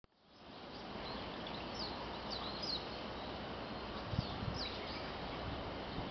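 Small birds chirping: short, quick falling notes in scattered bursts over a steady outdoor hiss, with a couple of low bumps about four seconds in.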